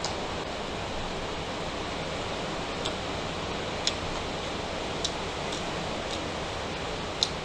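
Mouth sounds of eating: chewing and lip smacks heard as a few short, sharp clicks from about three seconds in, the loudest near the end, over a steady hiss.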